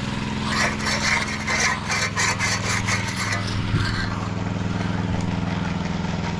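An engine runs steadily while a hand tool scrapes rhythmically through wet concrete, about four or five strokes a second, the scraping stopping a little past halfway.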